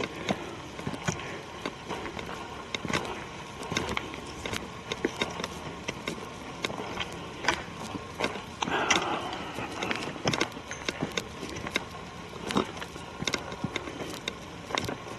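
Footsteps on a forest trail, with irregular crunching and crackling of leaf litter and twigs underfoot, plus a brief soft rushing sound about nine seconds in.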